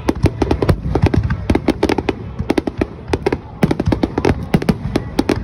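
Aerial fireworks bursting in quick, irregular succession: a dense run of sharp cracks and bangs, several a second, without letup.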